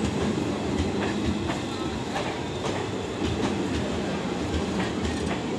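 ICF passenger coaches rolling along a station platform: a steady rumble from the wheels, with irregular clacks as they cross rail joints.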